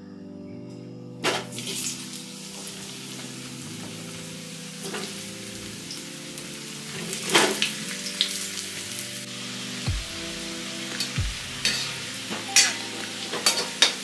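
Potato chunks frying in hot oil in an aluminium kadai: a sizzling hiss starts suddenly about a second in and runs on with sharp crackles. Later a steel spatula stirs them, with a few dull knocks against the pan.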